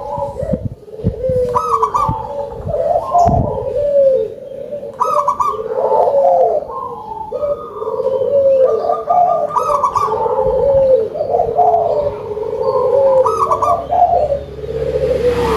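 Zebra doves (local perkutut) cooing continuously, in rolling, trilled phrases that repeat and overlap one another.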